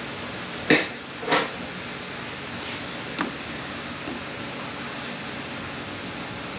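Hard knocks of parts or tools being handled during an automatic transmission teardown: two sharp ones a little under a second in, half a second apart, then a lighter one and a faint one, over a steady hiss.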